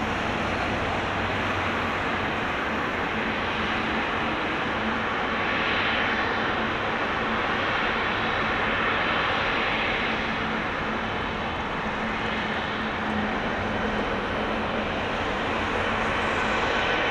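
Jet engine noise from a Boeing 777-300ER's GE90 turbofans during its landing: a steady, even rumble and hiss with faint high whines that slowly glide in pitch.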